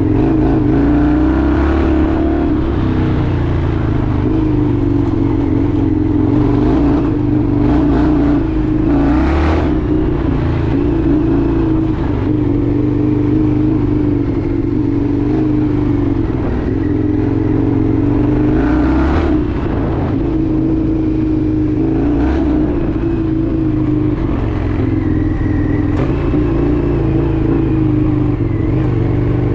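Indian FTR 1200's V-twin engine running steadily under way, its pitch wavering gently up and down, with several brief bursts of noise over it.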